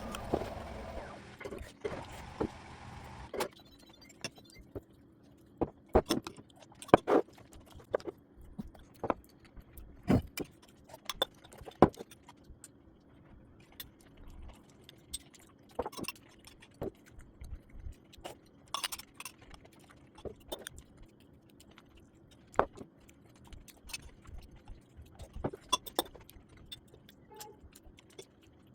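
A steady hum fades out in the first few seconds, followed by scattered sharp clicks and knocks at irregular intervals, like small hard objects being handled.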